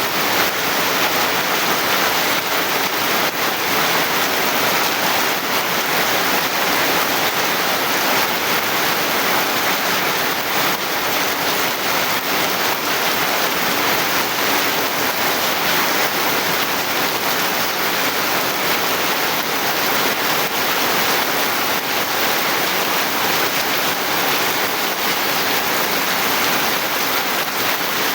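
Steady heavy rain, a dense, even hiss of falling water with no letup.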